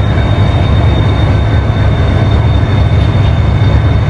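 Passenger train coaches rolling slowly along the station tracks: a loud, steady low rumble with a thin, steady high whine over it.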